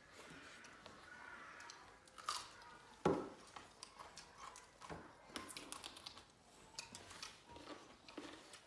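Close-up chewing and mouth sounds of people eating rice and pickle with their hands, with small crunches and clicks, the sharpest about three seconds in.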